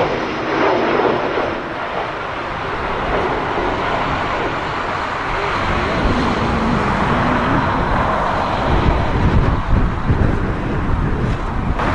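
Jet airliner engines during a landing, under strong gusty wind that buffets the microphone with a low rumble in the second half.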